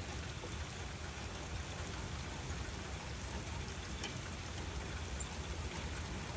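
Steady rainfall, an even hiss with small scattered drop ticks over a low rumble.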